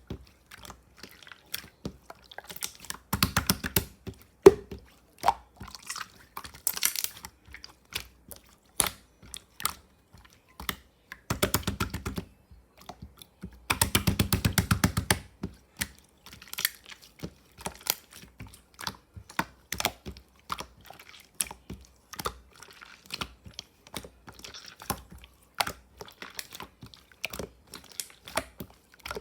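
Clear slime being mixed and squished by hand: a steady scatter of sticky clicks and pops, with runs of rapid clicking about three, eleven and fourteen seconds in.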